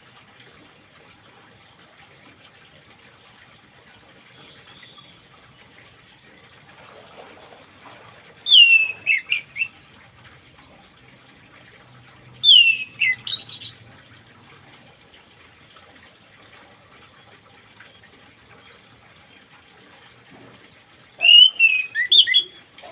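Orange-headed thrush singing three short phrases, each a falling whistle followed by a quick run of notes, over a faint steady hiss.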